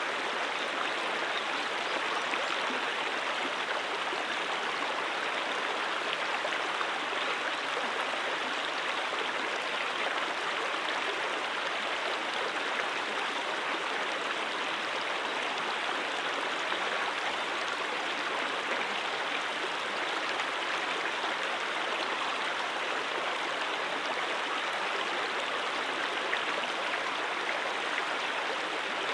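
Stream water running over rocks, a steady unbroken rush.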